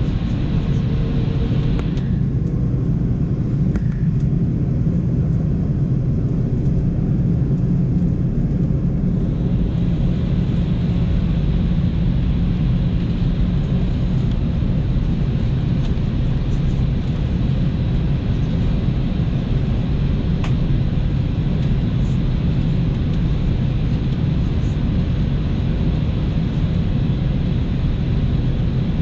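Steady cabin noise inside an Airbus A330-200 airliner in flight: a loud, even rumble of engines and airflow with a few steady low hums. A higher hiss drops away about two seconds in and comes back about nine seconds in.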